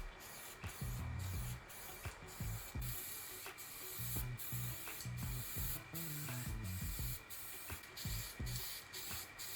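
Steady hiss of paint being sprayed, over background music with a bass line and a regular beat.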